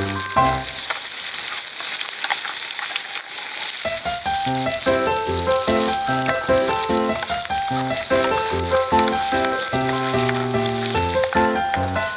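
Bacon sizzling steadily as it fries in olive oil in the lid of a Trangia mess tin over a wood fire. Background music plays over it, dropping out for a few seconds near the start.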